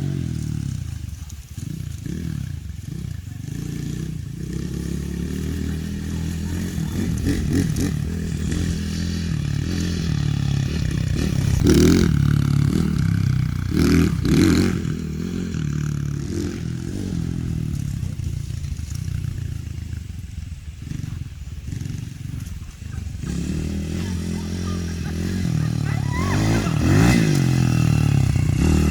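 2021 Z40 Max pit bike's engine running as it is ridden on a short test ride, its pitch rising and falling with the throttle, with a couple of louder revs about halfway through.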